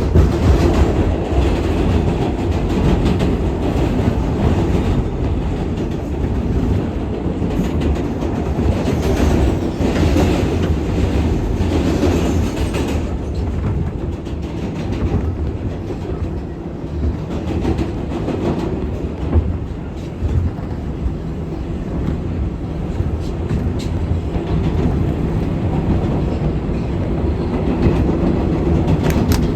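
R188 subway train running along the track, heard from inside the car: a steady rumble with wheels clacking over rail joints. A brighter, harsher stretch of noise comes about a third of the way in.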